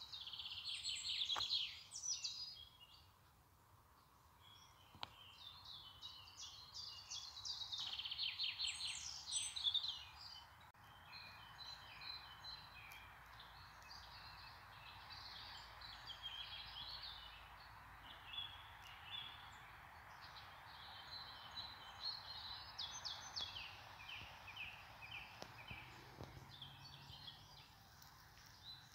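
Small songbirds chirping and trilling, several calls overlapping over a steady background hiss, with the loudest trills about a second in and again around eight to ten seconds.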